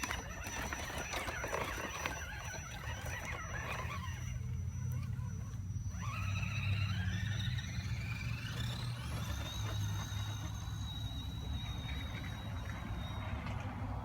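Electric motor of an Axial SCX10 RC crawler whining. About six seconds in it rises in pitch, then holds steady for several seconds.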